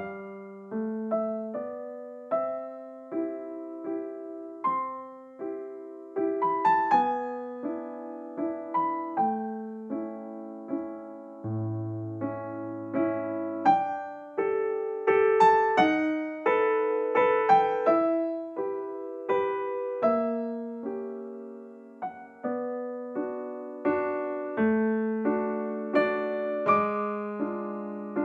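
Background music: a slow, gentle piano piece, notes and chords struck and left to ring and fade.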